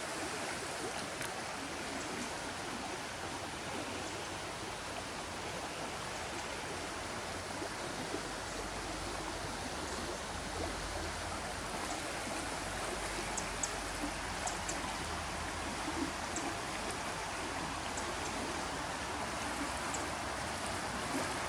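Creek water rushing and babbling steadily over rocks.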